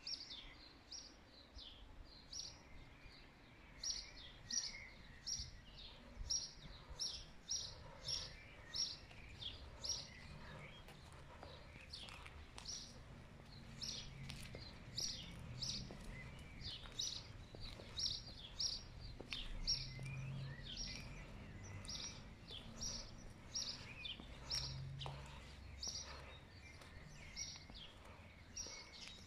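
Small songbirds chirping outdoors, a steady run of short high chirps about two a second, over a faint low background rumble.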